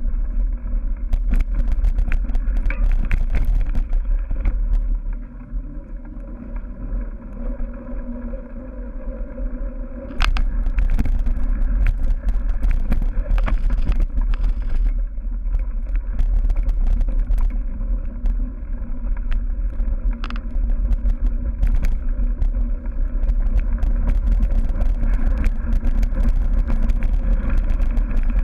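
Wind rumbling on the microphone of a cyclocross bike ridden at race pace, with frequent clicks and rattles from the bike over rough ground. The rumble drops for several seconds and picks up again about ten seconds in.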